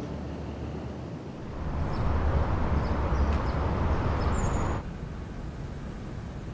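Steady low rumbling ambient noise that swells louder about a second and a half in and drops back abruptly near five seconds.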